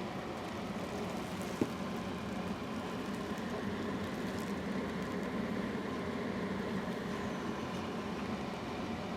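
Tractor engine running steadily, a constant drone, with a single sharp click about one and a half seconds in.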